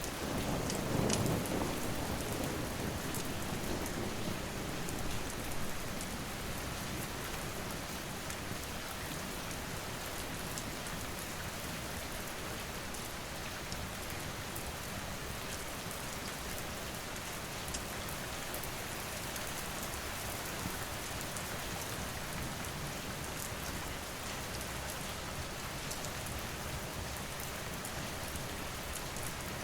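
Steady rain falling, with a low rumble of thunder that swells in the first second or two and fades out over the next few. Scattered sharp crackles sound through the rain.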